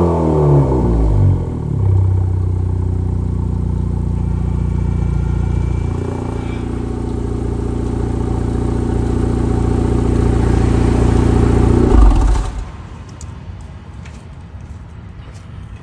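2020 Honda Accord 2.0-litre turbo four-cylinder running through a Borla exhaust fitted with SPELAB exhaust cutouts: the engine speed falls back from a rev at the start, then runs steadily and grows a little louder until the sound drops away sharply about three-quarters of the way through, leaving faint clicks.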